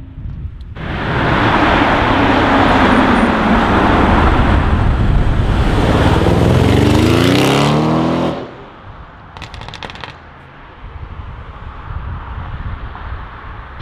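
Audi RS6 Avant's twin-turbo V8 accelerating hard past at close range, the engine note rising steeply near the end of the run before cutting off abruptly about eight seconds in. Quieter traffic noise follows.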